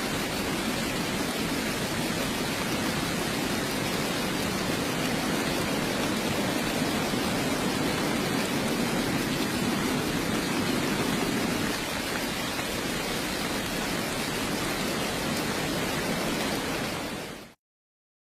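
Steady heavy rainfall, an even dense hiss, fading out quickly near the end to silence.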